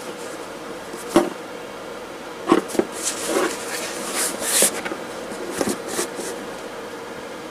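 Objects being handled on a work surface: a few sharp knocks and clicks, with rustling in between, over a steady faint hum.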